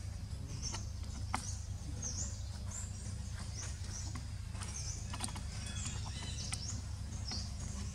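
A bird repeating a short high chirp over and over, about every half to one second, above a steady low rumble, with a few faint clicks.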